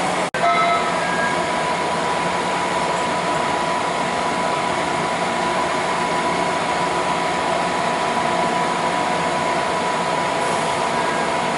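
A train running past on the tracks: a steady rush of wheel and rail noise with a steady high tone running through it. The sound cuts out for a moment about a third of a second in.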